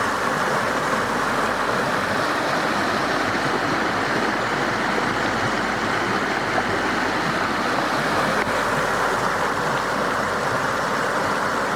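Steady rushing roar of falling water from a waterfall.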